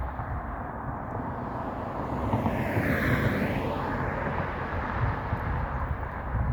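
A road vehicle passing by, rising to its loudest about three seconds in and then fading, over a steady low outdoor rumble.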